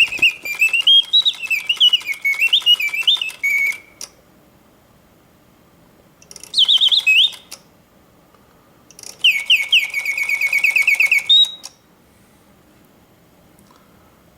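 Reuge mechanical singing bird cage, its bellows-driven whistle warbling a birdsong of rising and falling notes. The song breaks off about four seconds in, returns as a short phrase, then as a fast trill of repeated notes, and stops again in a long pause. The long pause is the sign that the bellows are in excellent condition.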